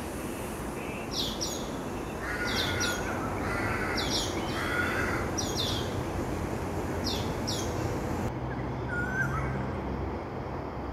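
Birds calling outdoors: quick high chirps in twos and threes, repeated about every second, with harsher lower calls from about two to five seconds in. The chirping stops about eight seconds in, leaving a single lower call over steady low background noise.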